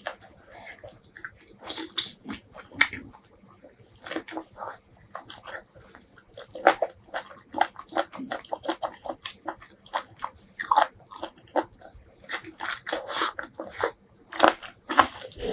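Close-miked eating sounds from a mouthful of spicy seafood stew: wet chewing, smacking and biting in quick irregular clicks, with a few brief pauses.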